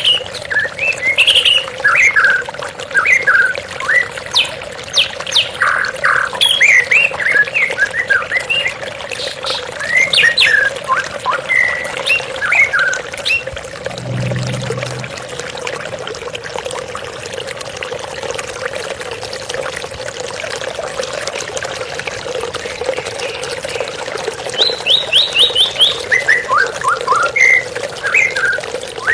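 White-rumped shama singing in quick bursts of short whistles and chirps over steady running water. The song breaks off for several seconds in the middle, and a brief low thump comes about halfway through.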